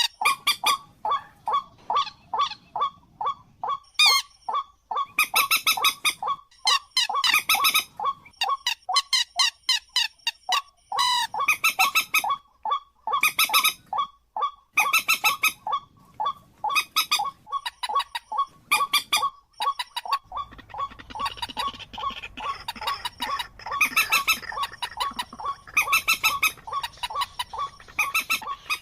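Bird calling over and over: a quick string of short, nasal, honk-like notes, two or three a second, with louder, fuller calls breaking in every second or two.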